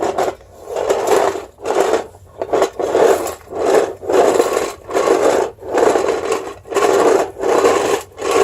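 Bissell Sweep Up carpet sweeper pushed rapidly back and forth over a tile floor, its rotating brushes rubbing and rattling across the soil and clippings in a steady rhythm of strokes, about one every 0.7 seconds. On tile it is spreading the soil around rather than picking it up.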